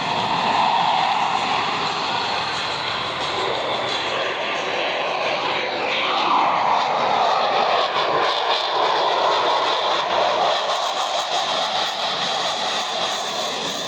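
Jet engines of a Blue Angels Boeing F/A-18 Super Hornet at full power on a takeoff run, a loud continuous jet noise. The pitch drops from about six seconds in as the jet passes.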